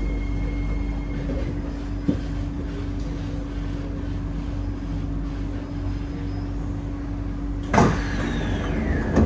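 Steady hum with a low rumble from an SMRT C151A train standing at a station with its doors open, a single click about two seconds in. A louder sudden burst of noise comes near the end.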